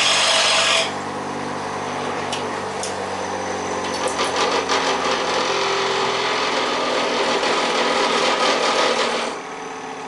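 A woodturning cutting tool being sharpened on a running powered grinder. A loud grinding hiss for about the first second gives way to quieter, uneven scraping strokes, over the steady hum of the motor, and the grinding stops near the end.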